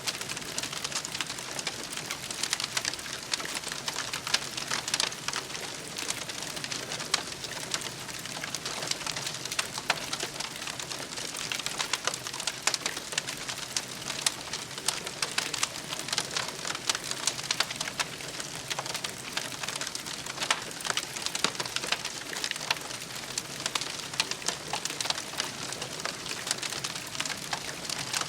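Wood campfire crackling steadily, with dense small snaps and pops over a soft hiss.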